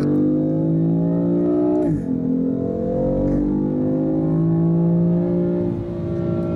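Car engine heard from inside the cabin, pulling hard with its pitch climbing, then dropping sharply on an upshift about two seconds in. It climbs again and dips on another shift near the end.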